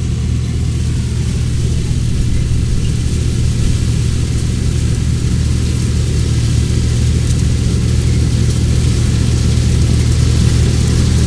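Combine harvester running steadily while harvesting soybeans: a deep, even engine hum under a steady mechanical rush, growing slightly louder toward the end.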